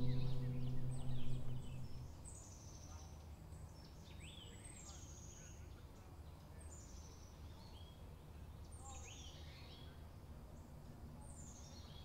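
An acoustic guitar's last chord rings out and fades away over the first two seconds. Then a songbird sings a short phrase of quickly falling high notes, repeated about every two seconds, over a low outdoor rumble.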